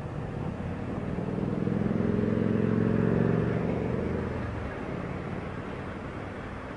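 A motor vehicle's engine, a pitched hum that swells over the first three seconds and fades by about five seconds in, over steady road and wind noise.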